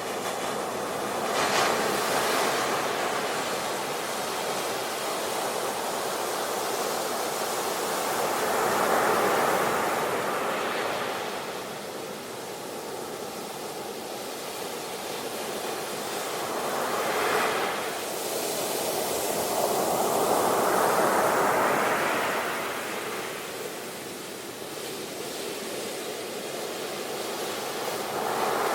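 Sea waves breaking and washing on the shore, the surf swelling and fading about four times, with a sharper crash near the start and another a little past halfway.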